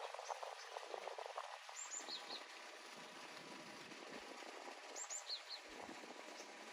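Faint outdoor quiet with a small bird chirping twice, each time a quick cluster of high, short notes about three seconds apart, and light crackling in the first two seconds.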